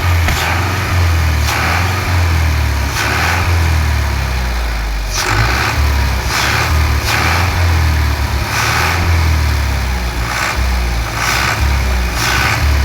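Fiat 640 tractor's diesel engine running loudly with a deep steady rumble, with repeated short bursts of harsher exhaust noise about once a second.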